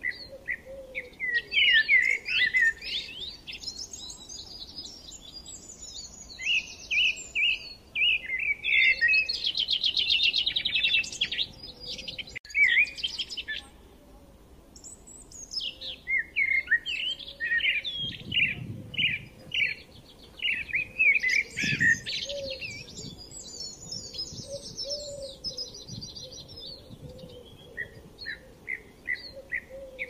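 Songbirds singing: phrases of quick, high chirps and rapid trills, broken by short pauses.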